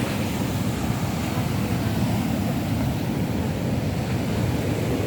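Rough sea surf with wind buffeting the microphone: a steady, low rumbling wash with no distinct breaks.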